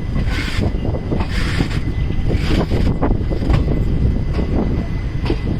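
Moving passenger train running on the rails, a heavy steady rumble with wind rushing over the microphone, surging roughly once a second.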